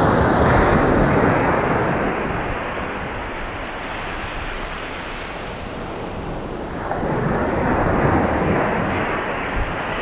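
Sea waves breaking and washing up a beach: one surge at the start that slowly ebbs, and another swelling about seven seconds in.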